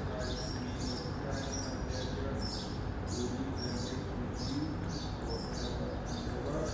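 A small bird chirping repeatedly, short high falling notes about twice a second, over a steady low background rumble with faint murmuring voices.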